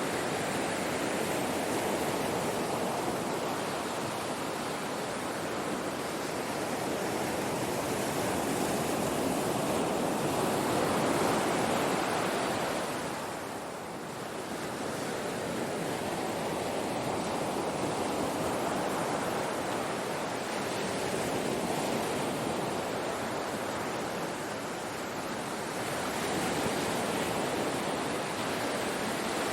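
Ocean surf washing onto a shore: a continuous rush of breaking waves that swells and eases, peaking a little before the middle and falling into a brief lull about halfway through before building again.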